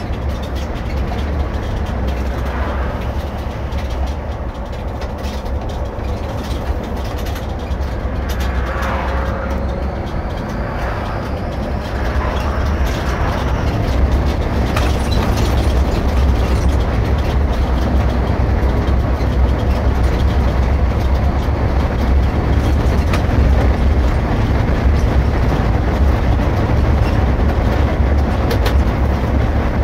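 Irisbus Récréo II coach driving, heard from the cab: a steady low engine and road rumble that grows louder from about twelve seconds in.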